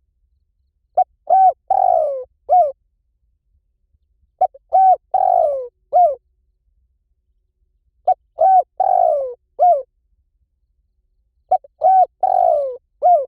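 Spotted dove cooing. Each phrase has four notes, the third long and falling in pitch, and the phrase repeats four times at a steady spacing of about three and a half seconds.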